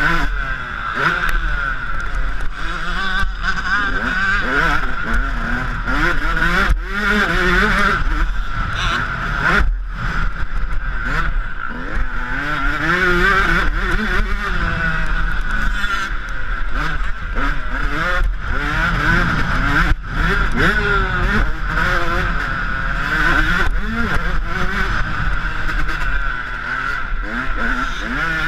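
Yamaha YZ125 two-stroke single-cylinder motocross engine being ridden hard, its pitch climbing and dropping over and over with throttle and gear changes.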